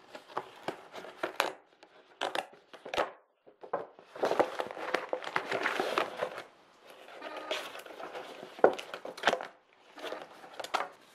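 Packaging crinkling and rustling as items are handled, in irregular bursts with a few short knocks.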